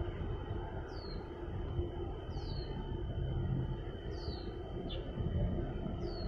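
A bird repeats a short downward-sliding call about every two seconds over a steady low outdoor rumble with a faint hum.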